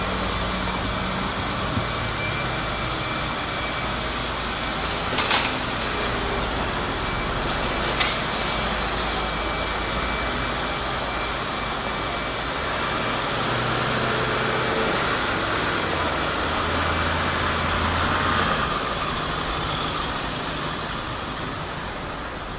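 City street traffic: a steady wash of passing vehicles, with a short sharp hiss of air just after eight seconds in and a heavy vehicle's low engine hum that swells about sixteen seconds in and fades a couple of seconds later.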